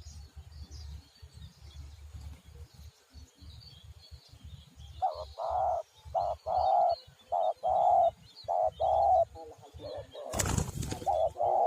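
Spotted dove (tekukur) cooing, a rapid series of short, deep coo notes starting about five seconds in, with faint small-bird chirps behind. Near the end a brief loud rustling burst breaks in.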